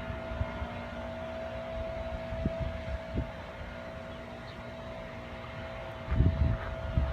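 A boat motor hums steadily. Wind buffets the microphone in low gusts, loudest about six seconds in.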